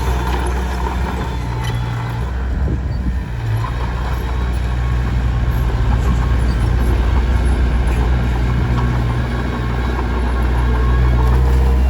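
Komatsu D21P bulldozer's diesel engine running steadily.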